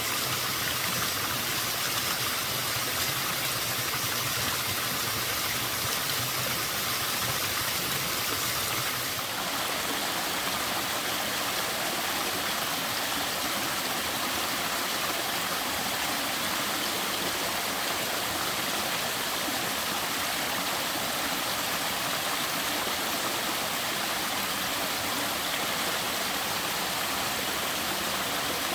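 Small waterfall at somewhat low flow: an even, steady rush of falling and splashing water. About nine seconds in, the character of the sound shifts slightly.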